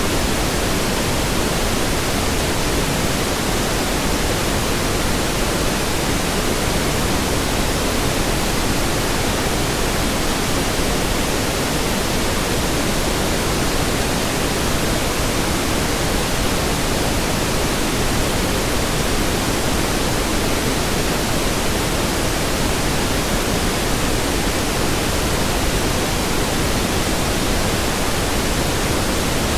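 Steady synthetic pink noise: an even hiss spread across all frequencies, weighted toward the low end, unchanging in level.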